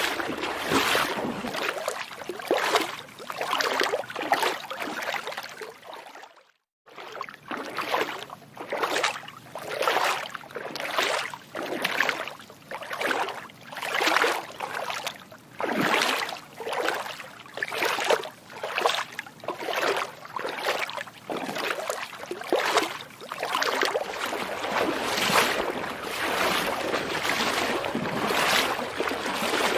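Footsteps wading through water, a splash with each step at roughly one step a second. The sound cuts out briefly about six and a half seconds in, then the steady splashing resumes.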